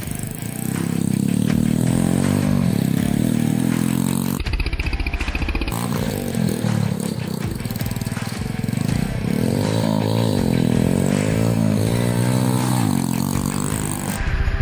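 Honda Wave 100 motorcycle engine, in a bike rebuilt as a dirt bike, revving up and down again and again as it is ridden or blipped, with an abrupt break about four seconds in.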